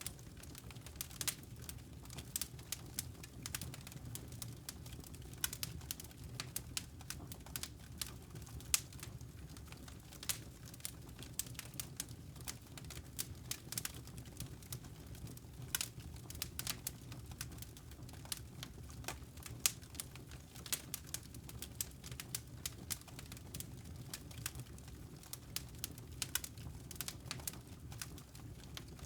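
Wood fire crackling in a fireplace: irregular sharp pops and snaps of varying loudness over a steady low rumble.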